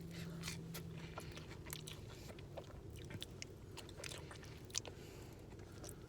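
A person chewing a mouthful of Taco Bell buffalo chicken nacho fries, faint, with small wet clicks of the mouth.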